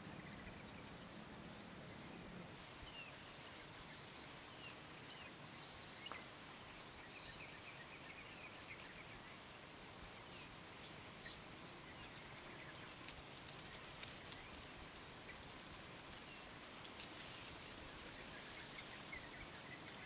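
Quiet outdoor ambience with scattered short, high bird chirps and a few faint ticks.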